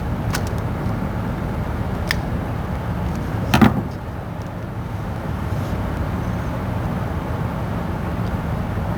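Steady low machine hum, with a few light clicks and one louder knock about three and a half seconds in.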